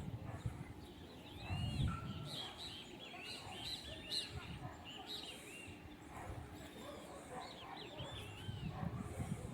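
Many small birds chirping at once: a busy chorus of short, arching chirps and tweets, with a low rumble coming and going near the start and near the end.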